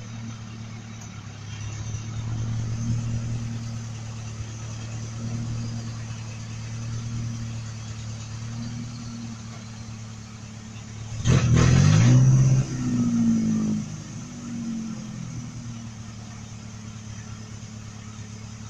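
Old truck engine idling with a steady low note, revved up once about eleven seconds in before settling back to idle; the idle has just been turned down from too high.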